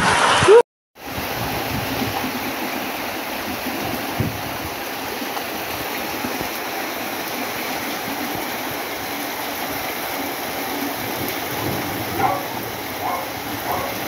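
Heavy rain coming down in a steady, even downpour. The sound cuts out for a moment just under a second in, then the rain runs on unchanged.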